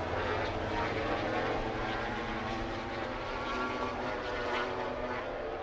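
MotoGP racing motorcycle engines running on track, several at once, their pitch slowly rising and falling as they rev and pass.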